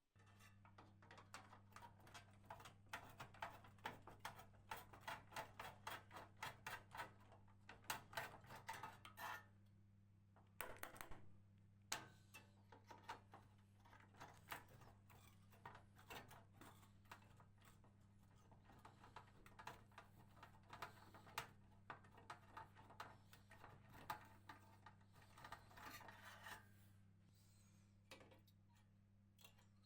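Runs of quick rubbing and scraping strokes with small clicks, over a steady low hum.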